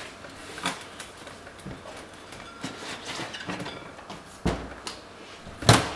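A rubber inner tube being pulled out from inside a dirt bike tire by hand, with scattered rubbing and light knocks and one sharper knock near the end.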